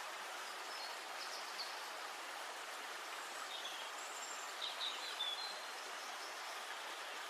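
Steady rush of flowing river water, with small birds chirping briefly about a second in and a few more times around the middle.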